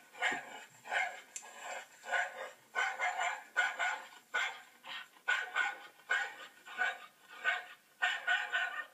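A dog barking over and over, short barks coming about two a second without a break.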